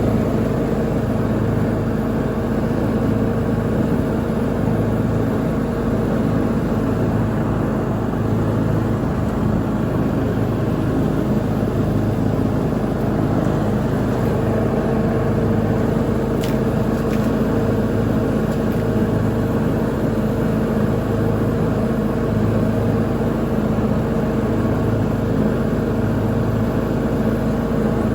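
Lawn mower engine running steadily at constant speed while mowing.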